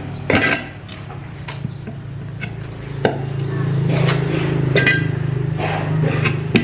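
Metal tools and parts clinking and knocking against each other several times, with short ringing after each knock, over a steady low machine hum.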